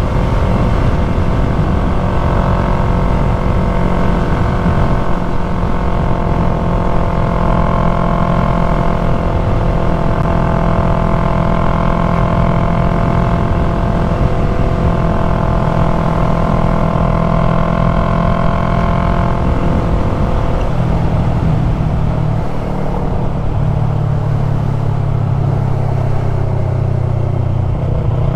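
2020 Yamaha MT-03's parallel-twin engine with an aftermarket full-system exhaust, running steadily while the bike is ridden, with wind rush. About twenty seconds in, the engine note changes and settles lower.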